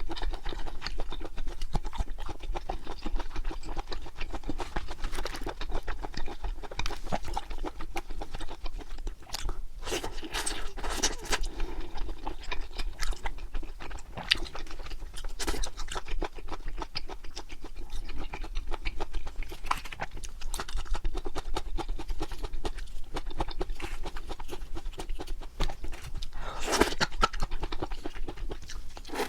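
Close-miked mouth sounds of a person chewing pork intestines (makchang), a dense run of small clicks and smacks, louder about ten seconds in and again near the end.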